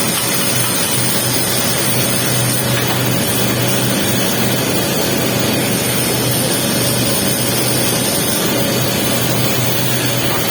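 Arc welding on a pipe capping pass: a steady crackling hiss from the arc over a constant low hum.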